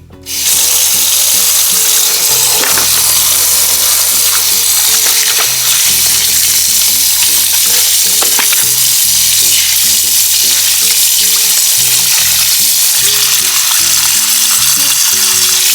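Loud, steady sizzling and crackling of pork leg deep-frying in hot oil for crispy pata, with background music underneath.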